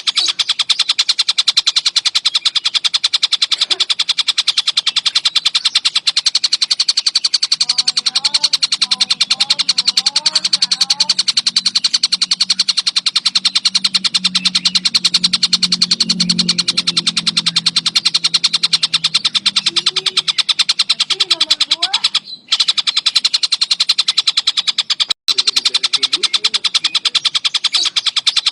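Songbird recording: a rapid, unbroken trill of fast-repeated high notes, briefly cutting out twice near the end, with fainter lower chirps and a low hum in the middle.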